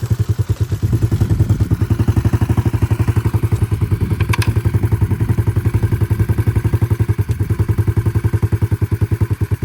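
Small single-cylinder dirt bike engine (a 140 swapped into a 125 frame) idling steadily close by, with a fast even beat. A single sharp click about four seconds in.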